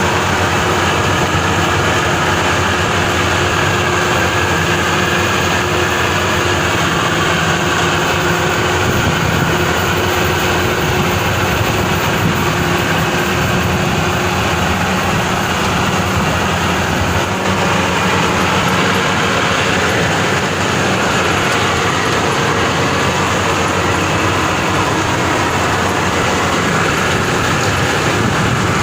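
Maxxi Bimo 102 rice combine harvester running, its engine and machinery making a loud, steady drone.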